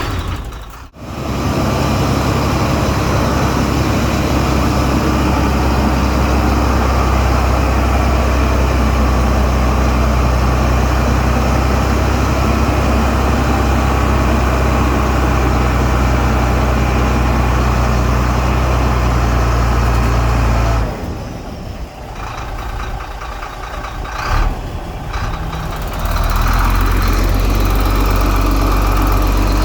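Heavy diesel earthmoving engine running steadily under load, with a low engine drone. It breaks off briefly about a second in, goes quieter for several seconds past the two-thirds mark, then comes back at full level.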